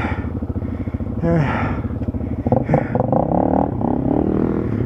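Dual-sport motorcycle engine running at low speed on the trail, picking up revs about halfway through and holding them for a couple of seconds before settling.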